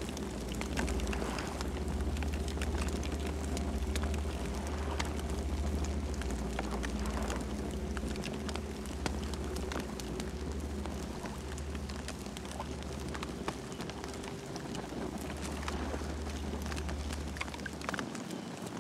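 Campfire burning, with many irregular small crackles and pops over a steady low rumble.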